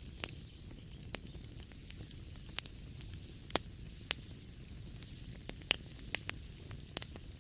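Wood fire crackling in a fireplace: irregular sharp pops and snaps, a few louder ones in the middle, over a steady low rumble and soft hiss of the burning logs.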